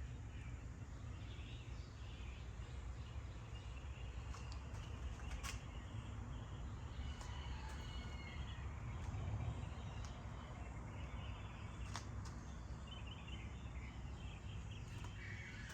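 Faint outdoor ambience: a steady low rumble with scattered distant bird chirps and a couple of sharp clicks.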